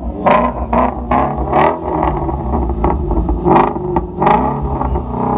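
Ford Mustang Shelby GT350's V8 running at idle with several short throttle blips, its pitch rising and falling with each rev.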